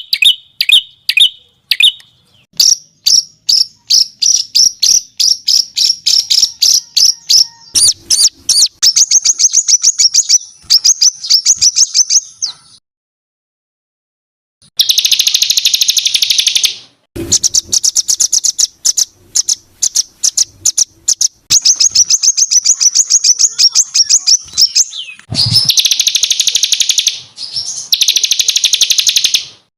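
Recorded songbird song: long runs of fast, sharp notes repeated several times a second, the rough, dense 'tembakan' phrases, in several separate bursts with a silent break about halfway through.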